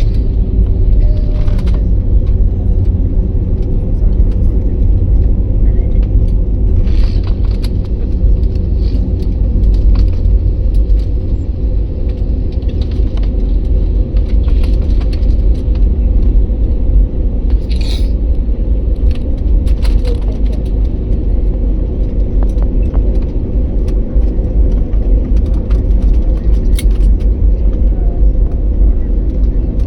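Jet airliner making a steady low rumble with a couple of steady hums over it, with scattered brief faint rattles and clicks.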